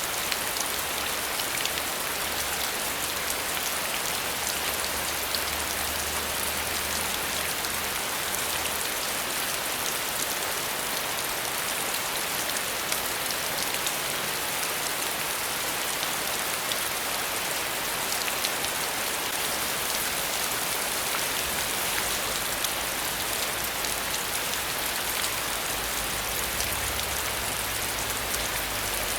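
Steady rainfall, with many fine drop impacts pattering on surfaces.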